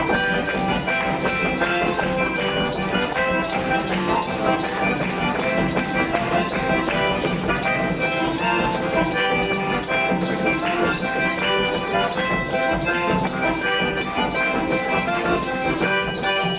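A Russian folk song ensemble playing instrumental music with a quick, steady beat of about four strokes a second and many sustained notes.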